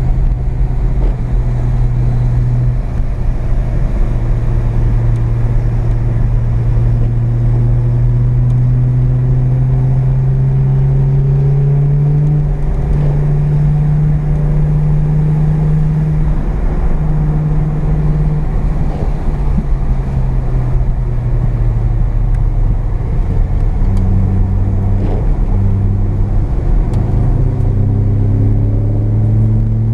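Carbureted 12A rotary engine of a first-generation (FB) Mazda RX-7, heard from inside the cabin on track. Its note climbs slowly for about twelve seconds under throttle, then falls back and dips and rises a few times near the end as the car slows for corners.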